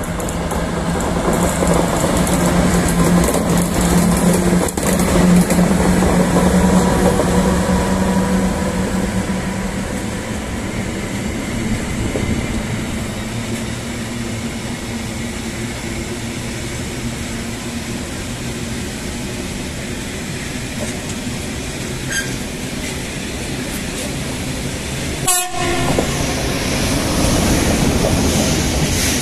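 SNCB class 13 electric locomotive hauling a freight train of tank wagons past at close range, with a steady low tone in the first ten seconds and continuous wheel and wagon rumble with clickety-clack. About 25 seconds in the sound changes sharply to the rumble of another train passing close by.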